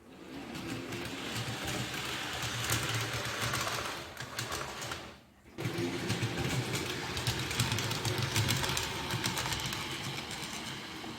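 HO-scale model train running on the layout: the electric motor's steady hum with fine clicking of the wheels on the track. It drops out briefly about five seconds in, then resumes.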